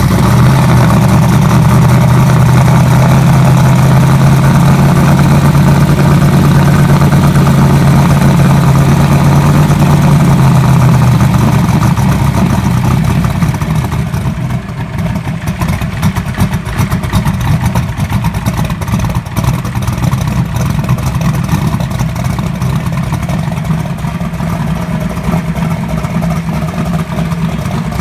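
Turbocharged small-block Chevy V8 in a third-gen Camaro running just after a cold start, loud and steady at first, then dropping in level about eleven seconds in and running lower and rougher. The engine is still cold.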